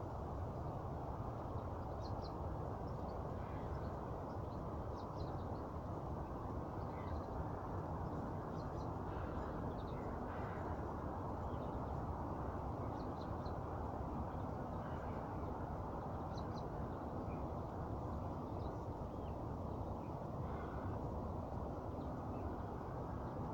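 Scattered short bird chirps and calls, faint and irregular, over a steady low rushing background noise.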